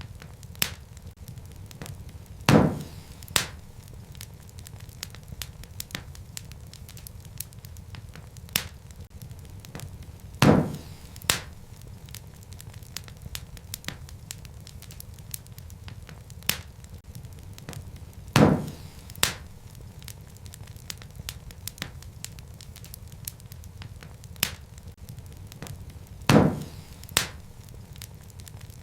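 Wood fire burning in a fireplace, crackling with many small snaps over a low steady rumble. A louder pair of sharp pops, under a second apart, comes about every eight seconds, four times in all.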